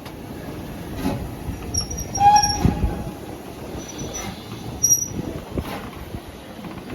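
Railway carriages rolling on the track, with short high-pitched squeals from the wheels at several points and a few sharp knocks over a steady rumble.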